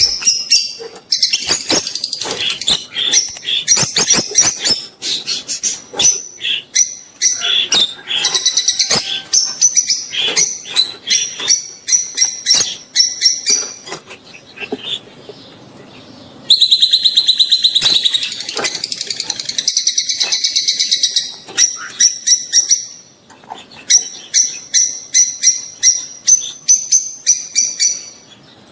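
Rosy-faced and Fischer's lovebirds giving mating calls: rapid runs of sharp, high-pitched chirps. The calling is broken by a short lull about halfway through, then comes back as a loud stretch of nearly continuous chattering.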